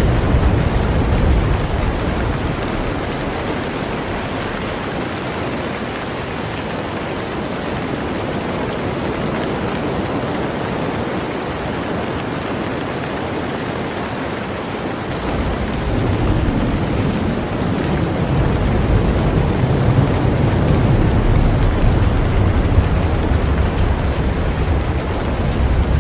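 Heavy rain falling steadily on a boat, a dense even hiss. A deep low rumble underneath fades out over the first couple of seconds and comes back about fifteen seconds in.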